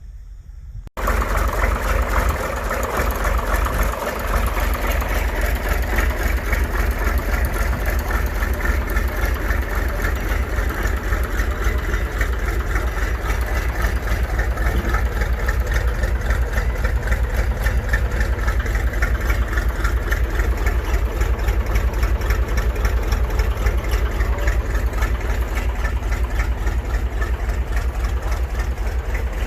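Tractor engine running at a steady idle, a fast even beat with a strong low rumble, starting abruptly about a second in.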